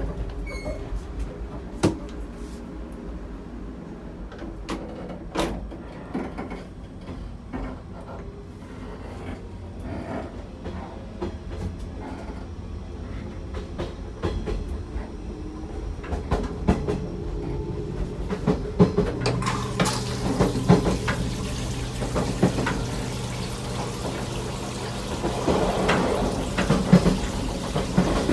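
Running sounds of a 415 series train heard inside its toilet compartment: a low rumble with scattered knocks and rattles. About two-thirds of the way in a steady low hum sets in and the noise grows louder.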